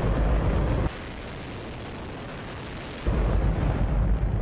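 Hydrogen-oxygen rocket engine firing on a test stand: a continuous, very loud roar heavy in deep rumble. About a second in it drops to a quieter, hissier roar for about two seconds, then the loud deep roar returns.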